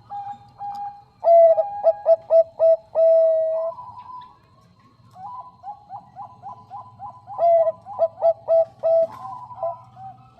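Zebra dove (Bangkok-strain perkutut) cooing. Twice there is a loud phrase, a quick run of short coos; the first ends in a longer held note. Fainter cooing carries on between the phrases.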